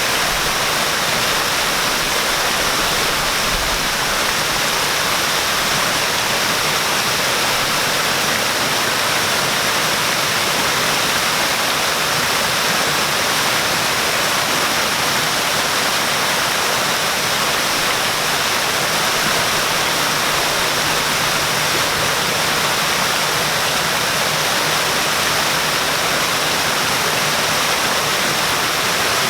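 Waterfall: a steady, unchanging rush of falling water, mostly a bright hiss with little low rumble.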